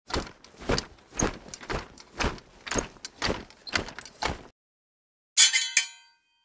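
Repeated heavy banging on a door, about two blows a second for some four seconds. After a short pause comes one sharp crash with a brief ringing tail.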